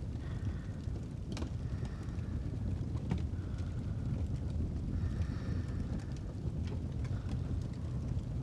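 Fireplace ambience: a steady low rumble with a few sharp crackles and pops from the burning wood, under slow, soft sleep breathing that comes and goes every few seconds.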